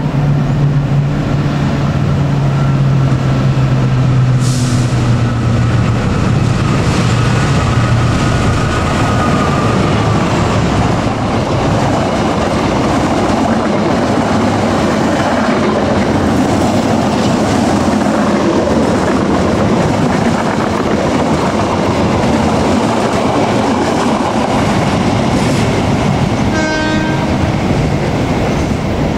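KAI diesel-electric locomotive approaching and passing with its engine running and a horn held for several seconds in the first third. Its passenger coaches then rumble and clatter past over the rails. A short pitched tone sounds near the end.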